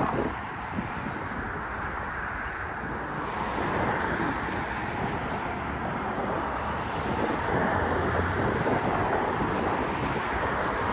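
Steady road traffic noise from passing cars, with a stronger low engine rumble about eight seconds in.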